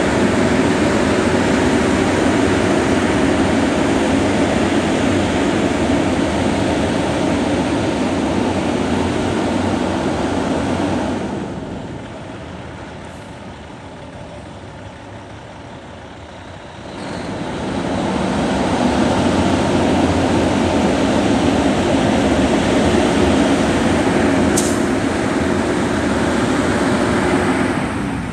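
2006 Kenworth T800 tandem-axle truck tractor's diesel engine running loud and steady, easing off for about five seconds in the middle before coming back up; a short sharp hiss a few seconds before the end.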